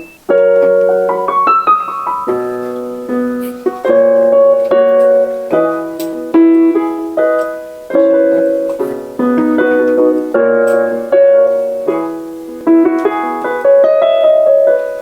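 Piano playing a song's melody over chords: a series of struck notes and chords, each ringing on before the next.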